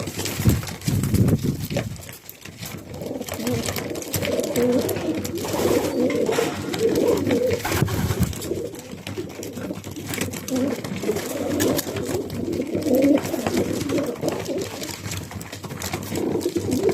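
Racing pigeons cooing at close range in a loft, several birds overlapping in a continuous low warble, with scattered light clicks and flutters.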